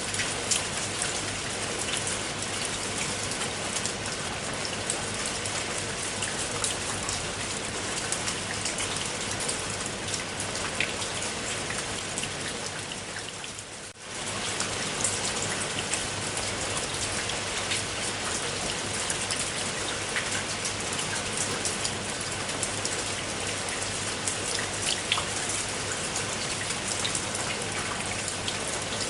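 Steady rain falling, with many separate drop hits heard within the even hiss. About halfway through it briefly fades down and comes straight back up.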